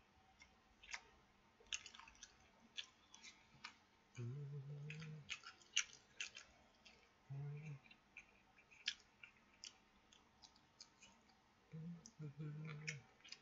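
A person chewing bacon close to the microphone, with many sharp wet mouth clicks and smacks throughout, and a few short low hums of the voice about four, seven and twelve seconds in.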